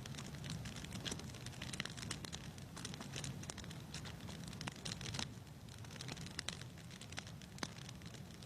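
Wood fire crackling in a fireplace: irregular pops and snaps over a steady low rumble of flame.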